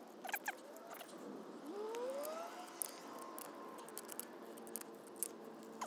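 Faint clicks and light rattles of small brass and rubber backflow-preventer parts being handled, with a few short rising squeaks around the middle.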